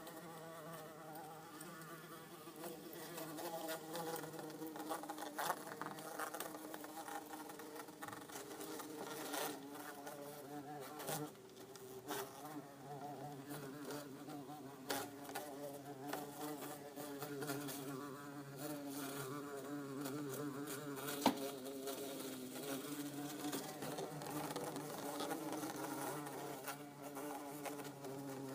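Orange-belted and yellow-faced bumble bees buzzing in an insect tank: a low, steady, slightly wavering hum with scattered light clicks.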